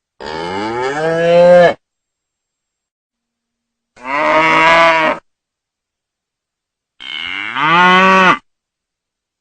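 A cow mooing three times, a few seconds apart. Each call lasts about a second or a second and a half, rises in pitch and grows louder toward its end, with complete silence between calls.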